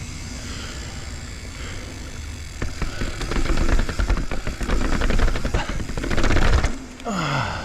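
Full-suspension mountain bike rattling and thudding down a flight of stairs: a fast series of jolts from about two and a half seconds in until nearly seven seconds, over a steady low rumble. A short falling tone comes near the end.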